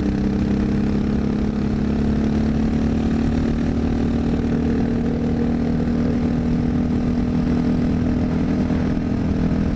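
Honda XR650L's single-cylinder four-stroke engine running steadily while riding, its pitch creeping up slightly through the second half.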